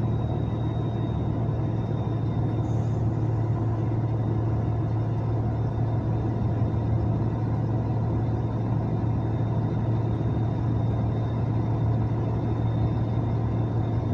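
Truck engine running at a steady speed: an even low drone that does not rise or fall.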